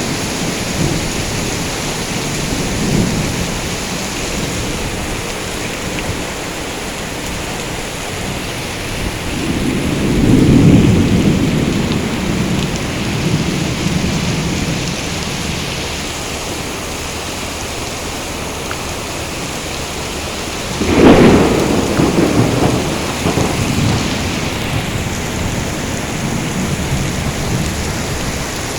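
Heavy rain falling steadily, with thunder: a low rolling rumble about ten seconds in, then a sharper, louder clap about twenty-one seconds in that rumbles away over the next few seconds.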